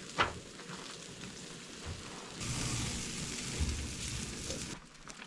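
Thick-cut bacon sizzling in a hot pan over a campfire, with a louder burst of sizzling from about halfway through that cuts off abruptly shortly before the end.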